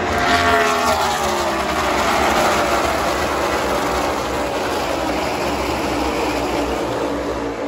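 A pack of NASCAR race trucks' V8 engines passing at speed, several engine notes falling in pitch together as they go by, followed by a steady din of engines.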